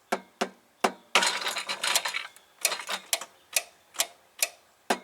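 Hammer tapping on the metal housing of a golf cart starter/generator at the brush end, sharp knocks about two a second, with a rougher stretch of noise lasting about a second, starting just over a second in. The tapping tests for worn starter brushes that stop the motor turning when the solenoid clicks.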